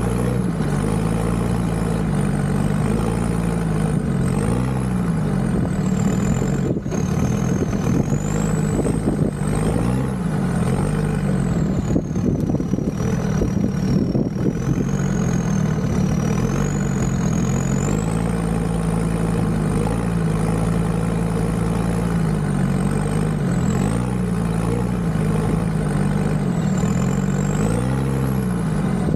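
Land Rover Discovery 2's Td5 five-cylinder turbodiesel engine driving at low revs, the revs rising and falling every few seconds. A thin high whine rises and falls along with the engine.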